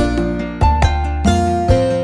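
Background music: plucked-string melody over a steady bass, with notes struck about every half second.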